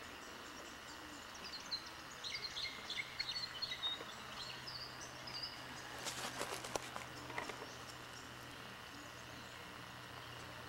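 Small birds chirping in short, quick notes over a steady background hiss, with a brief run of crackling clicks about six seconds in.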